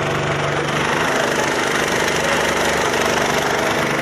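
Boat engine running steadily, a continuous low drone with a broad wash of noise over it.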